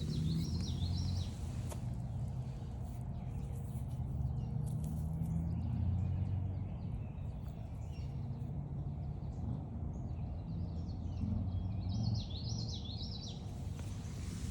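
A songbird singing two short warbled phrases, one at the start and one near the end, over a steady low rumble.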